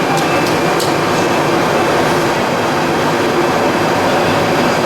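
Plastic pelletizing line machinery running steadily: a loud, even industrial drone with a few steady hums and tones, and a few faint clicks in the first second.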